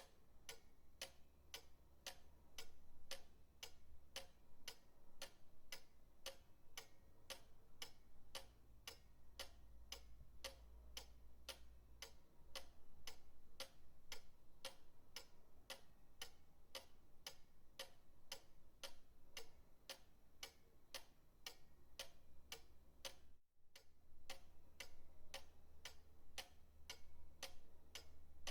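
Pendulum clock ticking steadily, about two ticks a second, over a faint low hum.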